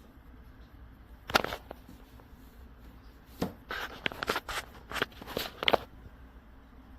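A sharp knock, then after a pause a quick cluster of clicks and knocks, like hard objects being handled.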